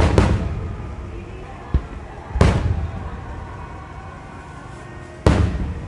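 Large aerial firework shells (No. 7 shells) bursting: three loud booms about two and a half to three seconds apart, each followed by a low rumble that dies away, with a lighter thump between the first two.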